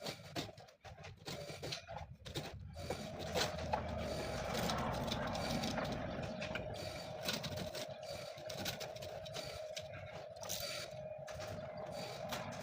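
A machine running steadily with a constant hum, starting about three seconds in, with scattered clicks and knocks.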